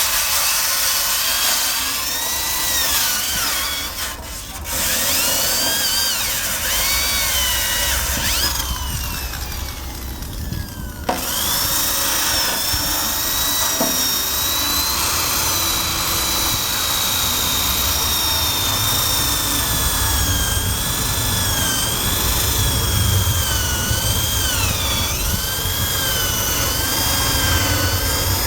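Electric drill spinning a wire brush against the bare steel frame: the motor whine wavers up and down as it bites under load, with brief letups about 4 and 11 seconds in before it runs on steadily.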